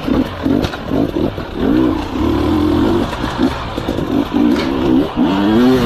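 Motorcycle engine revving up and down over and over, its pitch rising and falling.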